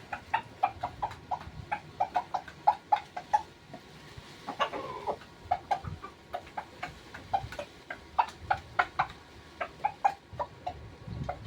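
Rooster pecking at its feed: a rapid run of sharp taps, about three or four a second, with a brief falling call about halfway through.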